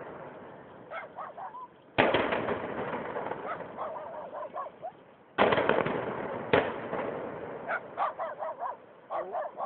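Explosive demolition charges going off at the cooling towers: three sharp blasts, about two seconds in, at about five and a half seconds, and one just after, each dying away slowly. Birds call in between and after the blasts.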